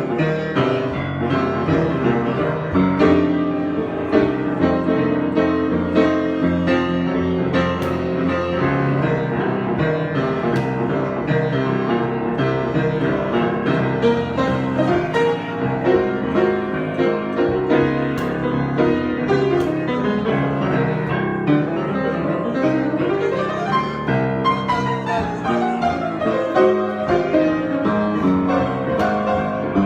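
Piano improvisation: dense, sustained chords and moving notes, with a falling run of notes late on.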